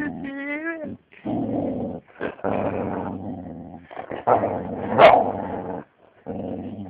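Young husky growling in a string of short bouts with brief pauses, opening with a wavering, pitched whine-like cry, with one sharp high yelp about five seconds in, the loudest moment.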